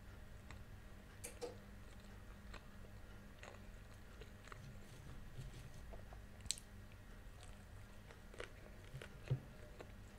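Close-miked chewing and biting of Turkish pide, soft flatbread topped with meat and cheese: scattered moist mouth clicks. A sharper bite comes about six and a half seconds in, and the loudest click near the end.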